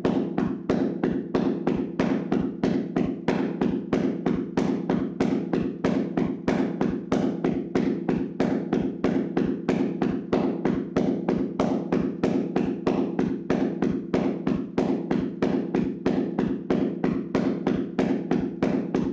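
Hands slapping and tapping on a person's body in a vigorous percussive massage: a rapid, steady run of strikes, about four a second.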